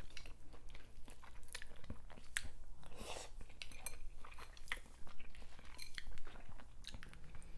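Close-miked chewing of seafood, with irregular small clicks from the mouth and food.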